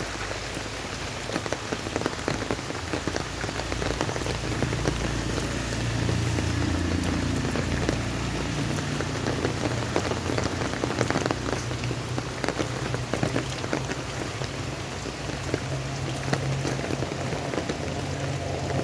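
Heavy rain falling onto a surface, a steady hiss dotted with individual drop impacts. A low steady hum joins from about four seconds in.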